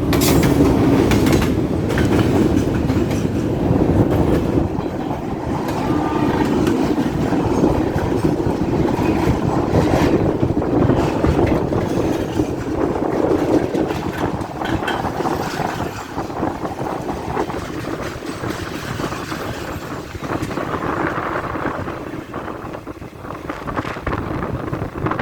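Moving train running on the track: a steady heavy rumble with irregular clacks of the wheels over the rails.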